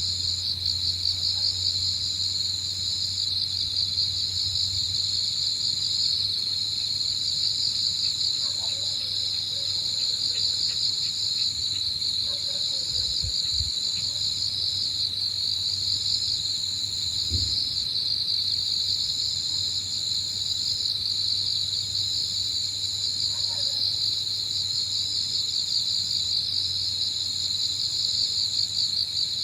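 Evening chorus of autumn insects, crickets among them: a dense, steady high-pitched trilling, with a second, higher trill that breaks off briefly every couple of seconds. A few faint, short, falling calls sound underneath, about a third of the way in, again a few seconds later, and near the end.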